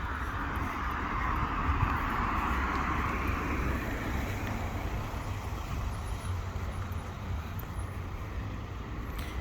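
Street traffic: a car going past, its tyre and engine noise fading away over the first few seconds, over a steady low rumble of road noise.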